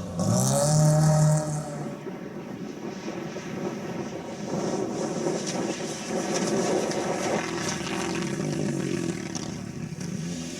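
Rally car engine revving hard, its pitch dipping and then climbing for about the first second and a half. After that it drops to a quieter, steadier engine sound as the car moves away.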